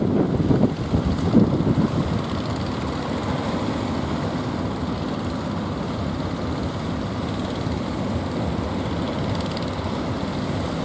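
Wind buffeting the microphone for about the first two seconds, then a steady drone of fishing-boat engines running.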